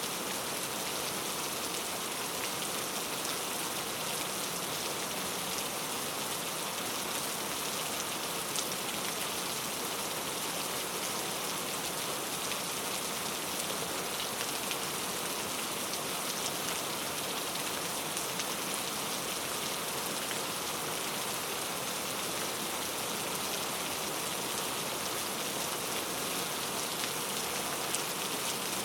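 Steady rainfall in a forest, an even hiss with scattered individual drop ticks.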